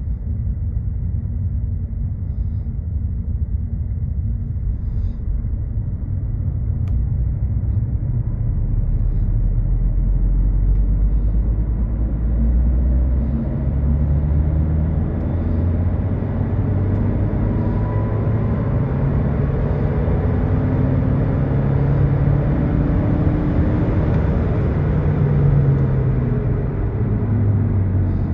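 A 10th-generation Honda Civic's 1.5-litre turbocharged four-cylinder engine pulling hard in fourth gear from just above idle, its drone rising steadily in pitch as the revs climb from about 1,000 to 4,000 rpm. It is heard from inside the cabin, with road and tyre noise building as the speed rises.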